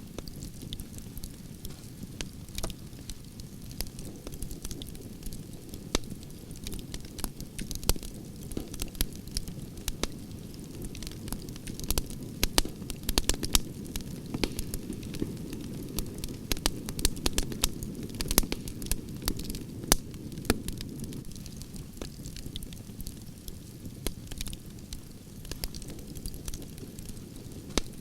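Wood campfire burning with a steady low rush of flames and frequent sharp crackles and pops from the logs, which come thicker about halfway through.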